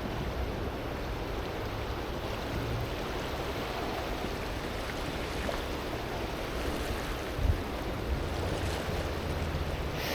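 Steady rush of fast, flood-high river water pouring past a dam. A brief low thump about seven and a half seconds in.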